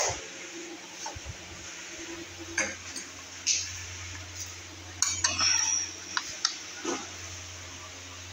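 Scattered metallic clinks and knocks, with a quick cluster of them about five seconds in, over a steady low hum.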